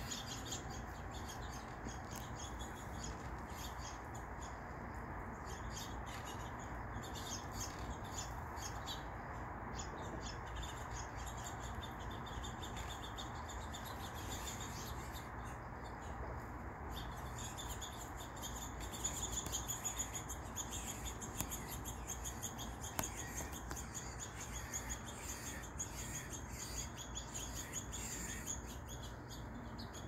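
Small songbirds chirping, many short high calls in quick succession, busier and louder in the second half, over a steady low background hiss.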